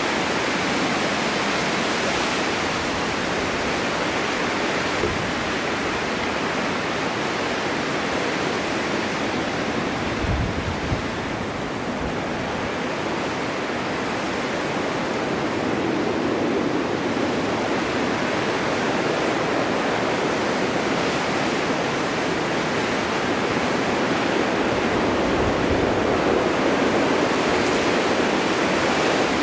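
Snowstorm wind blowing as a steady rushing noise that swells and eases slowly, with a few brief low thumps about ten seconds in.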